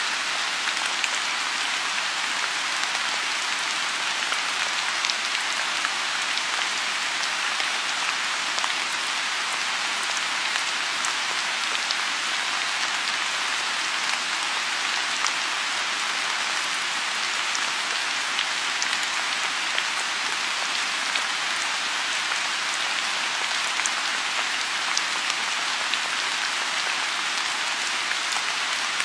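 Steady rain falling on a lotus pond: an even, dense hiss with scattered sharper drop ticks.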